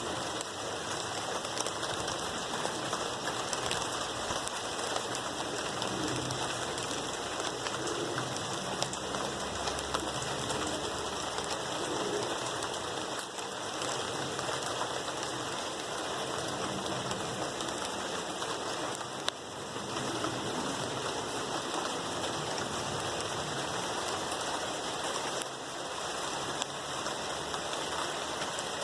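Steady, gentle rain falling on plant leaves, a dense patter of many small drops.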